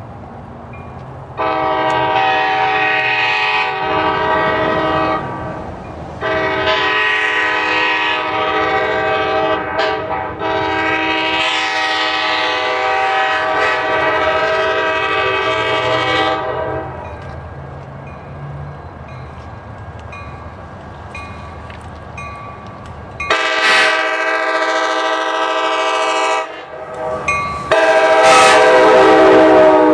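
Sounder commuter train locomotive's multi-chime air horn sounding a series of long blasts for a grade crossing, with a longer gap before two more blasts. In the last blast the pitch drops as the locomotive passes by.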